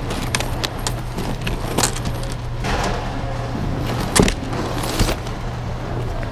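Scattered clicks and knocks of loose items being handled and dropped while rummaging through thrift-store bins, the sharpest knock about four seconds in, over a steady low hum.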